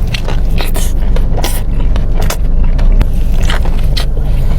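Close-miked biting and chewing of a double smash burger: a quick, irregular run of wet crackling clicks over a steady low rumble.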